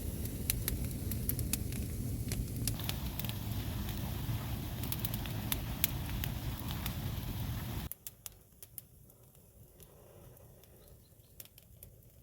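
Wood fire crackling, with sharp irregular pops over a steady low rumble. About eight seconds in it cuts off suddenly to a much quieter stretch with only a few faint clicks.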